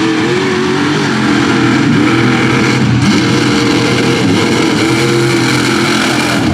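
A mega mud truck's big engine running hard at high revs, its pitch rising and dipping, under a steady rush of noise.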